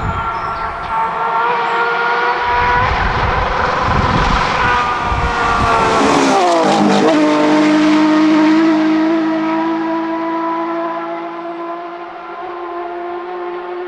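Porsche GT3 rally car's flat-six engine at high revs as the car passes by: it grows louder, its pitch drops sharply about seven seconds in as it goes past, then it pulls away on a steady, lower note.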